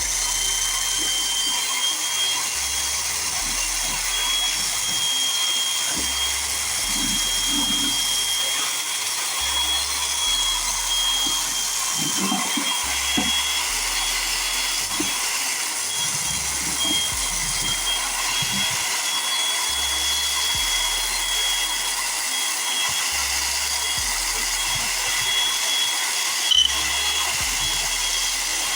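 A small electric motor-driven tool running steadily, an even hiss with a thin high whine over it. One sharp click comes near the end.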